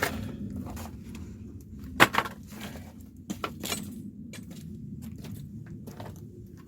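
A few sharp clinks and knocks of objects being handled, the loudest about two seconds in, over a steady low hum.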